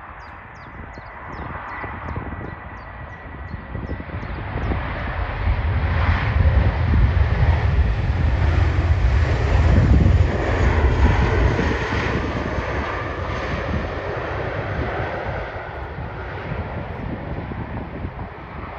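Jet airliner passing: the engine noise builds for several seconds, is loudest with a deep rumble about halfway through, then slowly fades away.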